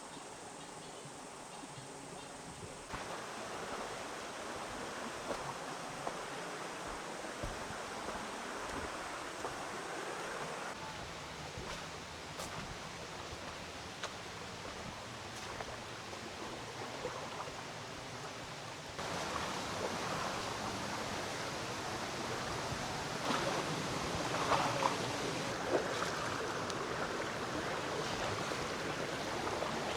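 Forest stream running: a steady rush of flowing water that gets louder in steps, about three seconds in and again past the middle. A few light knocks and clicks sound near the end.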